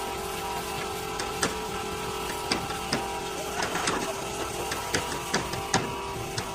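A small electric motor running with a steady hum, with irregular sharp clicks and taps over it.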